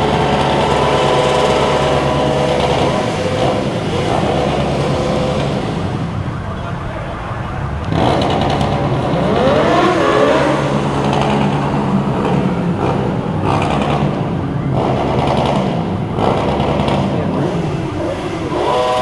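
Sport motorcycle engines idling and being revved repeatedly, the pitch rising and falling with each blip of the throttle.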